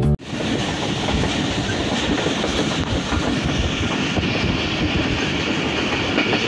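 Passenger train running along the track, heard from inside the carriage: a steady rumble and rush of wheels on rails.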